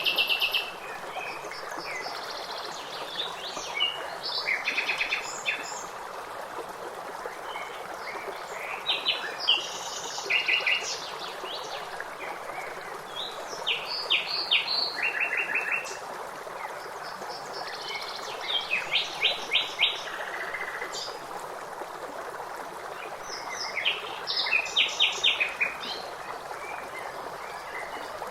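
A songbird singing short phrases of quick repeated notes about every four to five seconds, over the steady rush of a stream.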